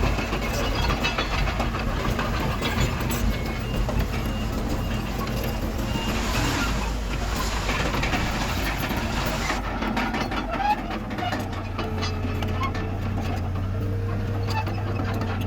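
Heavy diesel earthmoving machinery running steadily. The sound changes abruptly about ten seconds in to a smoother, steadier low drone.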